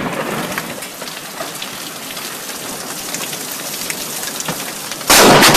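Heavy rain falling steadily, then about five seconds in a sudden, very loud crack of thunder from a very close lightning strike, near enough to be felt as a shockwave.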